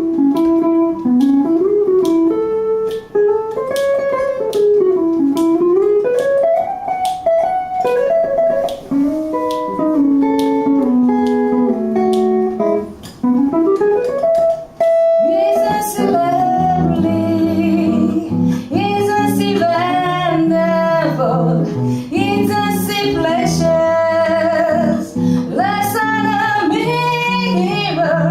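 Live guitar solo, a single-note line with bends and slides, then about halfway through a fuller guitar accompaniment comes in and singing resumes over it.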